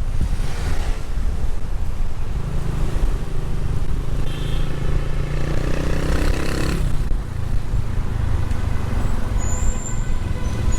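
Motorcycle engine and road traffic noise heard while riding, with wind on the microphone. An engine's pitch climbs for a few seconds in the middle, and a brief high squeal comes near the end.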